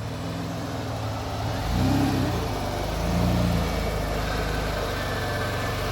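Vehicle engine running under load and revved up twice, about two seconds in and again about a second later, then settling back to a steady run.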